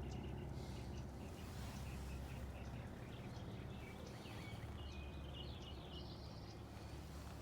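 Steady low hum of the 2000 Infiniti i30's 3.0-litre V6 idling, the engine being checked for a misfire, with birds chirping through the middle.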